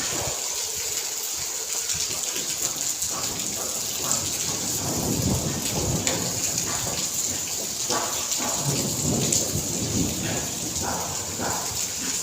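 Steady rain falling, with many separate drops striking a surface and low rumbles swelling in the middle.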